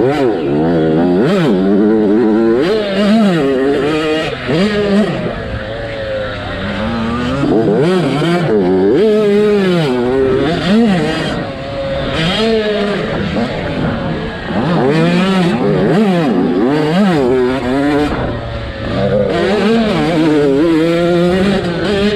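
Motocross dirt bike engine racing, revving up and falling back over and over as the throttle is opened and closed, the pitch rising and dropping every second or two.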